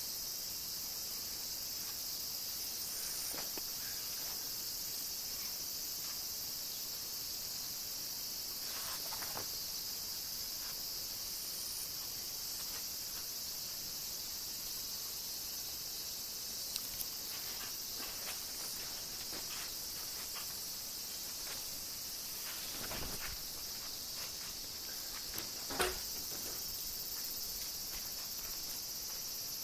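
A steady, high-pitched chorus of insects such as crickets, with a few soft knocks and clicks scattered through it and one sharper click near the end.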